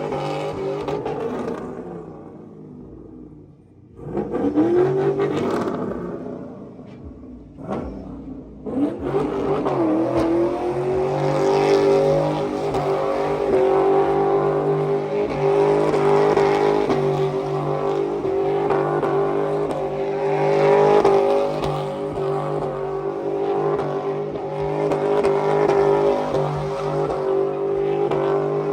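Vehicle engine revving up sharply twice, then held at high revs, its pitch wavering slightly up and down.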